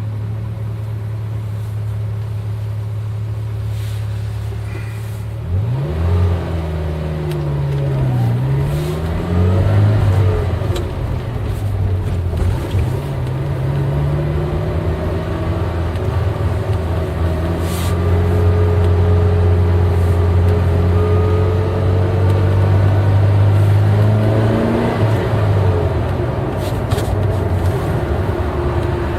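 Eight-cylinder car engine running at a steady note. From about six seconds in, its pitch rises and falls several times as the revs change, then climbs slowly for about ten seconds before dropping back near the end.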